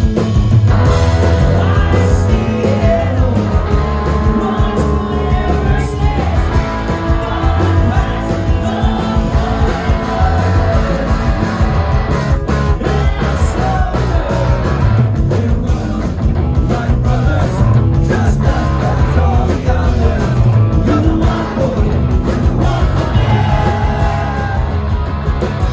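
Live emo rock band playing loud and steady, with sung vocals over electric guitars, bass and a driving drum beat.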